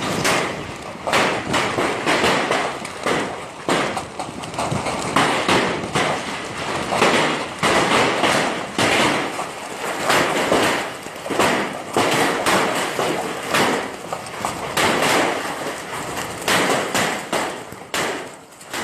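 Hailstones striking hard surfaces in a heavy hailstorm: a dense, irregular run of many hits with no let-up.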